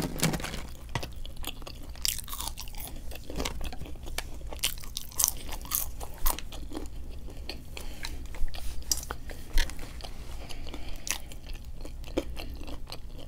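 A person chewing and crunching food, with many short, sharp crunches and mouth clicks at irregular intervals.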